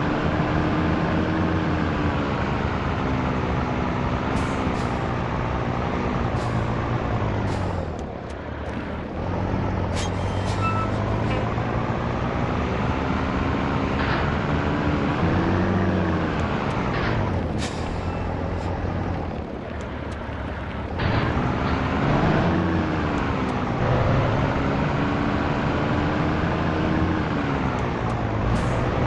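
Scania T113 truck's diesel engine pulling on the road, its pitch climbing and falling again and again as it works through the gears. The engine drops away briefly twice, about eight and twenty seconds in, at gear changes. Several short sharp clicks or hisses come through in between.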